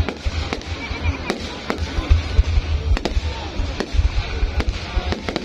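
Fireworks going off: a rapid, irregular string of sharp cracks and bangs over a low rumble.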